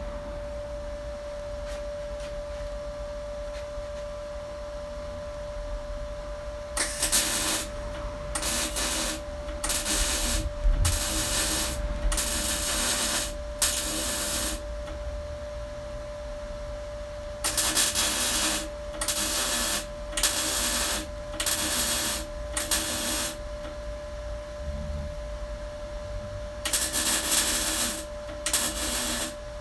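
MIG welder laying short bursts of weld on thin car-body sheet steel, a crackling sizzle that starts about seven seconds in and comes in runs of brief welds with pauses between them. A steady hum runs underneath.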